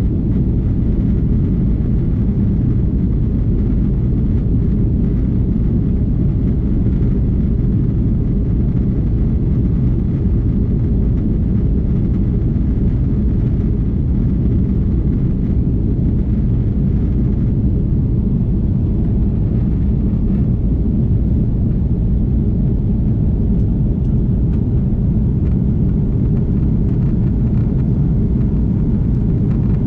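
Steady cabin rumble of an Airbus A330-300 airliner in flight, engine and airflow noise heard from a window seat, low and unchanging.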